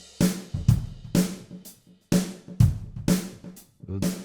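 Sampled 1970s Ludwig drum kit playing a groove of kick, snare and cymbal hits about twice a second, run through a filter delay effect, with a brief gap near the middle.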